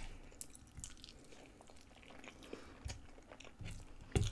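Close-miked chewing of a mouthful of fried chicken strip, with light clicks as a fork picks at food on a wooden board, and a dull knock near the end.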